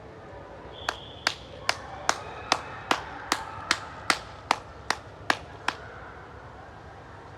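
A run of thirteen sharp, evenly spaced knocks or claps, about two and a half a second, starting about a second in and stopping after about five seconds.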